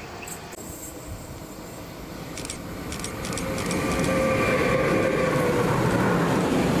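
A train approaching, growing louder over a couple of seconds and then running steadily close by, with a few steady high tones over the rumble.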